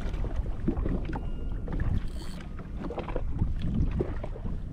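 Wind buffeting the microphone and choppy water slapping against a drifting jet ski's hull, with a few small clicks and knocks.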